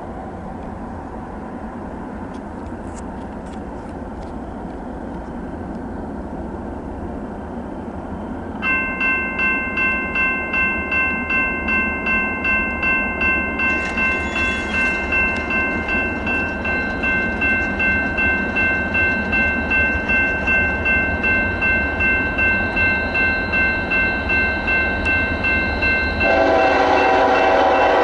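Railroad grade-crossing bell ringing about twice a second, starting about a third of the way in, then a train horn blowing loudly near the end.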